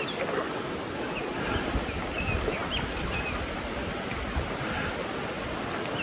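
Mountain stream running over rocks, a steady rushing wash of water, with a few faint short high chirps about two seconds in.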